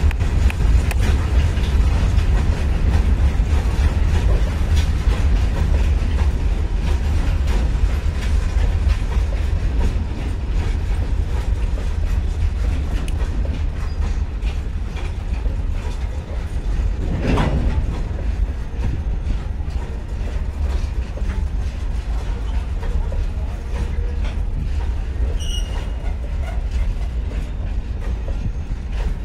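A long freight train of open-top wagons rolling past: a steady low rumble with the repeated clatter of wheels over rail joints.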